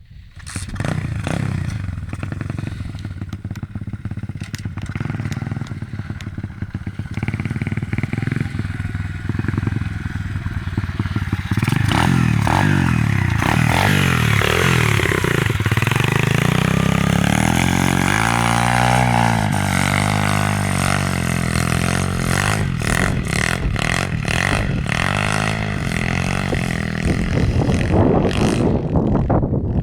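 Pit bike engine revving hard on a climb, its pitch repeatedly rising and falling with the throttle; it gets louder about twelve seconds in, and short clattering knocks come through near the end.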